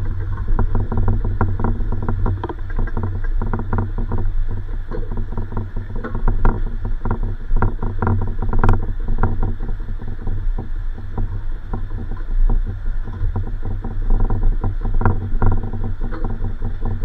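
Inside a SkyTrain car: a steady low rumble with frequent rattling clicks, and one sharper click about halfway through.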